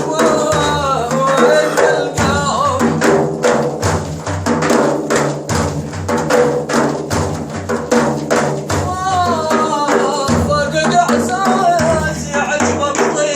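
A male maddah singing an Arabic praise poem in a long, ornamented melodic line, over a steady frame-drum and tambourine-like beat.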